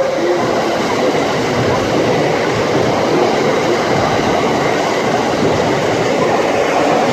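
JR 681-series electric express train running through a station, a steady loud rush of wheels on rail and clatter over rail joints, mixed with heavy rain.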